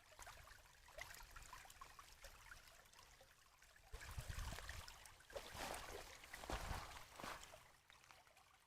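Rainwater runoff trickling faintly along a roadside ditch, with a few dull thumps and rustles between about four and seven seconds in.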